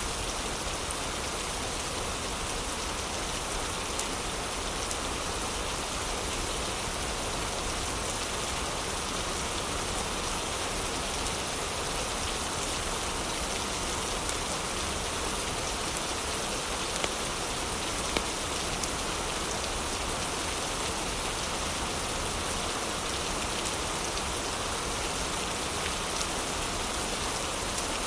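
Steady heavy rain, an even hiss without let-up, with a few sharp crackles from a wood fire; two louder crackles come just past the middle.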